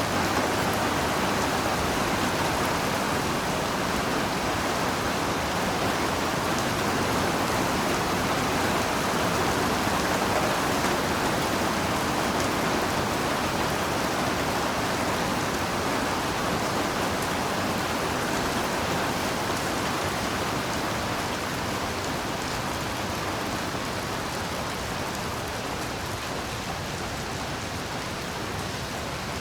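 Heavy rain falling steadily: a dense, even hiss of drops on surfaces that eases off slightly near the end.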